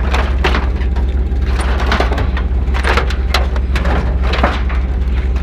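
Scrap metal knocking and scraping as pieces are shifted and loaded into a truck bed, a string of irregular clanks over a steady low rumble.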